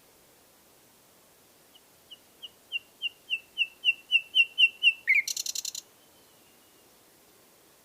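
Nightingale singing. About two seconds in, a phrase of a dozen repeated whistled notes, roughly three a second, swells in loudness, then ends in a short harsh rattle and a faint thin whistle.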